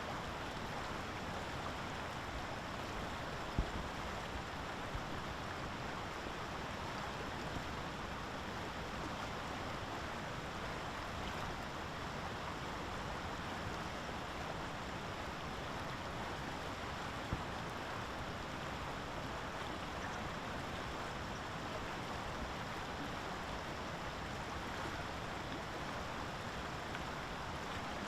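Steady rushing noise of water, with two faint knocks, one a few seconds in and one past the middle.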